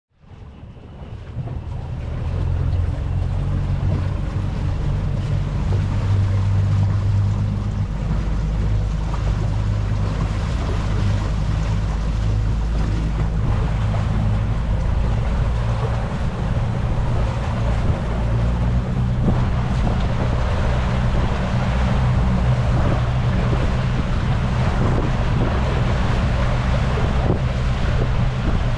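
Speedboat engine running steadily at speed on a rigid inflatable boat: a low, constant drone under the rush of water and wind buffeting the microphone. It fades in over the first two seconds.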